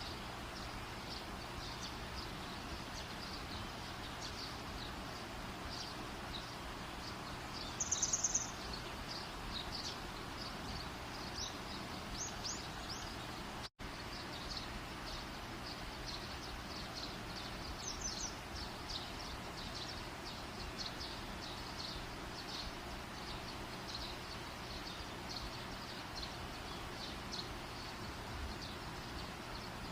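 Campfire burning with a steady soft hiss and many small high crackles; a short high chirp stands out about eight seconds in, and the sound drops out for a split second just before the middle.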